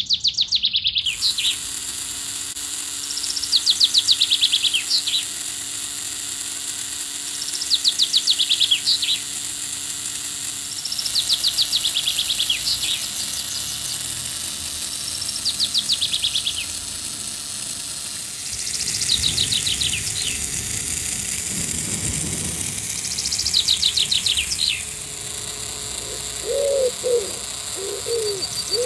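A songbird repeating a short, rapid, falling trill about every four seconds, over a steady high hiss. A dove cooing starts near the end.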